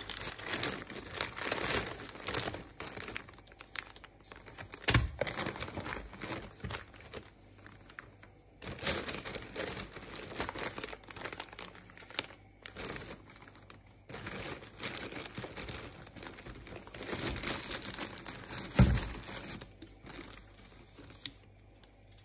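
Irregular crinkling and rustling handling noise, with a thump about five seconds in and a louder thump near the end, then it quiets down.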